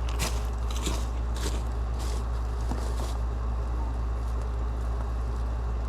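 A motor vehicle running with a steady low rumble, with several short sharp clicks or knocks in the first three seconds.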